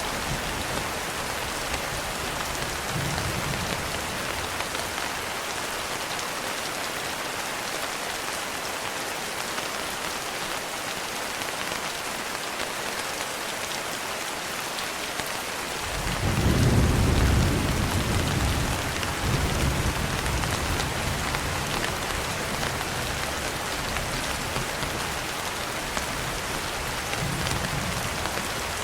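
Steady rain with a low rumble of thunder rolling in a little past halfway, loudest for a couple of seconds, then fading back under the rain. Fainter distant rumbles come early and near the end.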